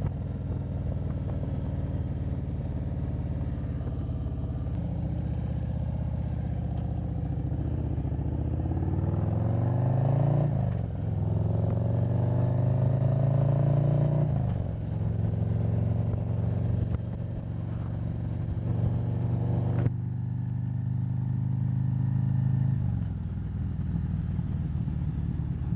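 2024 Harley-Davidson Road Glide's Milwaukee-Eight 117 V-twin running under way. It rises in pitch as it accelerates and drops at gear changes about ten and fourteen seconds in, then runs steadily.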